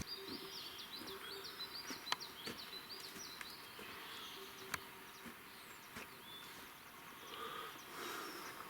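Faint night-time forest ambience: a bird gives a quick run of about ten high chirping notes over the first few seconds. Later a few faint clicks and a soft hum that comes and goes.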